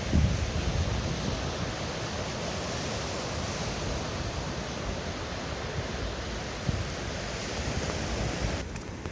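Steady wash of sea surf with wind buffeting the phone's microphone in low rumbles; the hiss drops away suddenly near the end.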